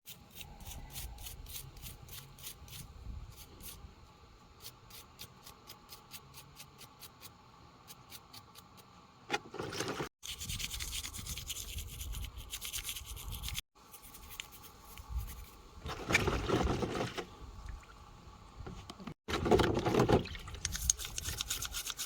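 Knife and sandpaper scraping rust off a metal diesel fuel-pump part, in quick repeated strokes that turn into louder stretches of rubbing.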